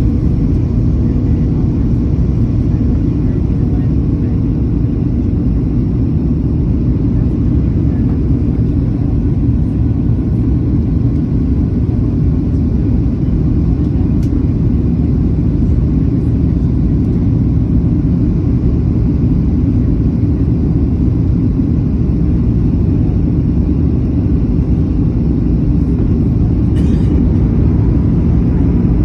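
Steady low rumble of an airliner's engines and airflow, heard from inside the passenger cabin during the approach to landing.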